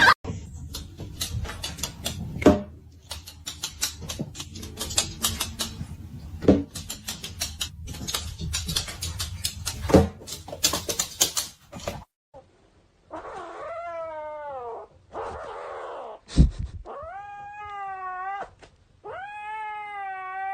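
A cat yowling in three long drawn-out calls in the second half, with a short breathy noise after the first and a sharp thump before the second. Before that, a long stretch of clicks, knocks and rustling over a low rumble.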